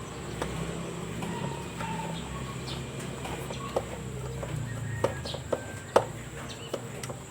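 Scattered light clicks and knocks of hand tools and metal parts being handled on a motorcycle, with a sharper knock about six seconds in, over a low steady hum.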